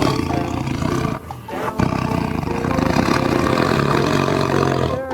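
Tiger roaring, loud and rough, with a brief break about a second in before the roaring goes on.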